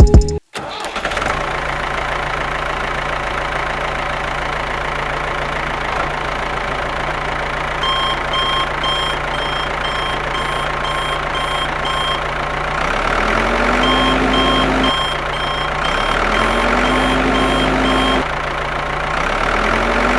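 Engine running steadily, its pitch rising three times as it is revved. Over it, two runs of quick, evenly spaced beeps, each lasting about four seconds, like a reversing alarm.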